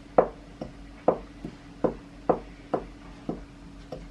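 The end of a wooden spoon pounding whole cloves to crush them: a series of dull knocks at an uneven pace of about two a second.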